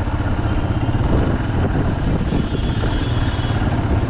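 Bajaj Pulsar 200 motorcycle's single-cylinder engine running steadily under way.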